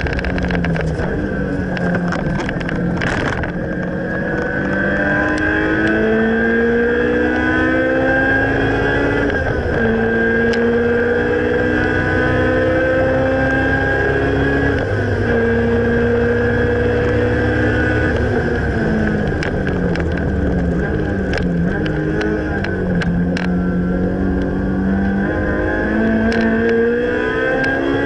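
Honda S2000 AP1's 2.0-litre four-cylinder engine through a Spoon N1 exhaust, driven hard on track. The pitch climbs for several seconds at a time and drops between climbs as the car changes gear, with a longer fall under braking about two-thirds of the way in before it pulls again.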